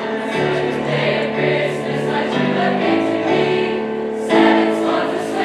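High school choir singing a song with instrumental accompaniment, a low line moving note by note beneath the voices, swelling louder a little over four seconds in.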